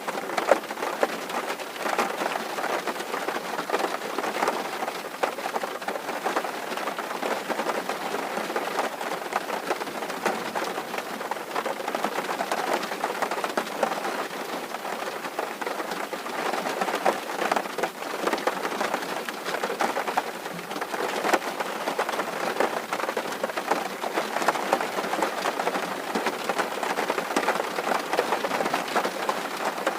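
Steady rain falling on a tin roof: a dense, even patter of countless drops.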